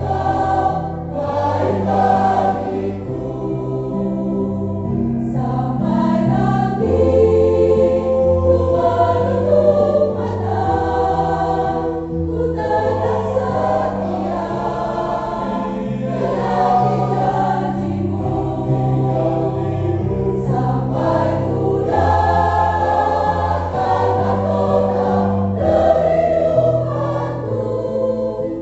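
Mixed church choir singing an Indonesian hymn in harmony, with sustained notes and chords changing every second or two.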